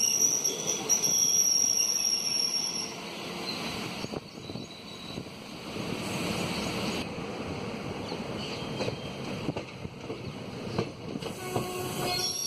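Passenger train running noise heard from an open coach door, wheels rumbling and clattering on the track. It is loudest for the first few seconds as a second train passes close alongside, with a steady high-pitched squeal over it for about three seconds that comes back briefly near the end.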